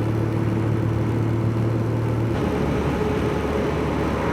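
Motorbike engine running at road speed, with wind and road noise. About two seconds in, the engine note changes.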